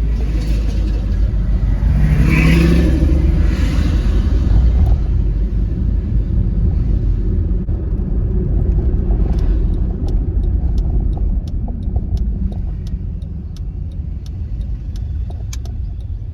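Honda Freed minivan pulling away and driving, heard from inside the cabin: a steady low engine and road rumble, swelling as it accelerates over the first few seconds. From about halfway through, a light ticking comes in, about twice a second.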